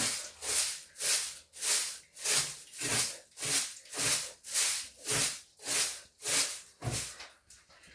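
Rhythmic scrubbing strokes against a surface, hissing, about three every two seconds, which stop shortly before the end.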